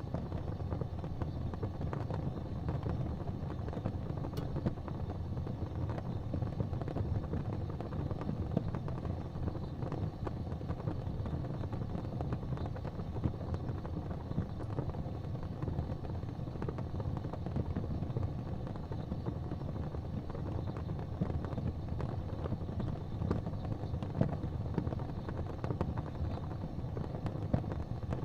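Wood fire crackling in a fireplace: a steady low rumble with many small, irregular pops and snaps scattered through it.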